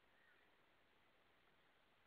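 Near silence: faint steady hiss, with one faint, distant bird call just after the start.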